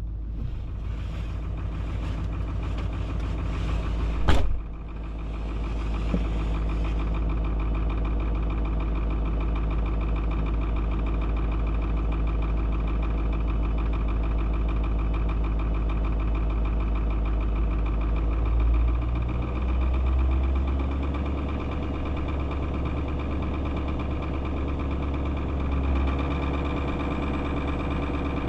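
Chevy K3500 dually's 6.6-litre Duramax V8 turbodiesel idling steadily just after a cold start, with one sharp knock about four seconds in. The low engine note shifts about two-thirds of the way through.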